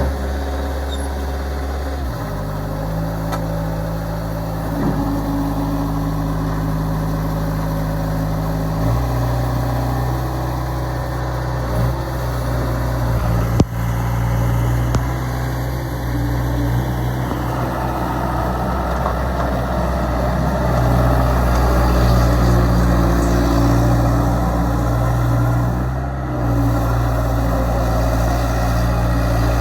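Bobcat S185 skid steer's diesel engine running. It steps up in speed twice in the first ten seconds. About fourteen seconds in there is one sharp knock, and from about seventeen seconds the sound turns rougher and busier as the machine works.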